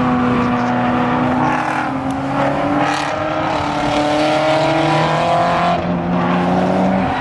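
Race car engines running on the circuit, a loud steady drone whose pitch drifts slowly down as the cars go by, with a change of note about six seconds in and again near the end.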